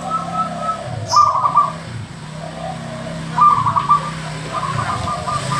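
Zebra dove (perkutut) cooing in repeated rapid trilled phrases, with a brief click about a second in.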